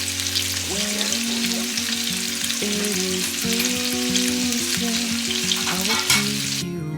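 Tomatoes and spinach sizzling in a frying pan, stirred with a utensil that clicks and scrapes against the pan. The sizzle stops suddenly near the end, leaving soft background guitar music.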